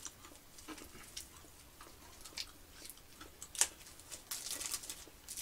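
Crunching and chewing of a fried churro coated in cinnamon sugar: a string of soft, crisp crunches, with one sharper crunch about three and a half seconds in.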